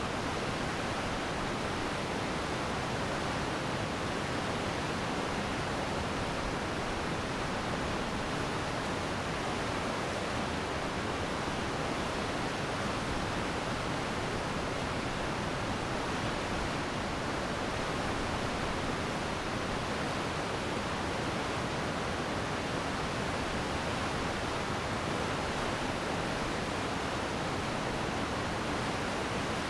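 Glacier meltwater stream rushing steadily, an even wash of water noise with no breaks.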